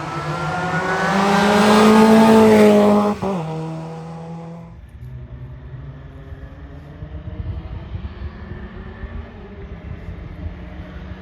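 VW Polo hillclimb race car driving past at full throttle, its engine note rising as it approaches and loudest about two seconds in. About three seconds in the pitch drops sharply as it goes by. The sound then fades to a low, uneven rumble as the car moves away.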